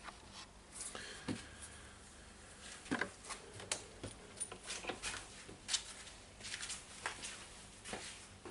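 Faint, irregular small clicks and short rustles of hands handling small parts, wires and tools at a workbench.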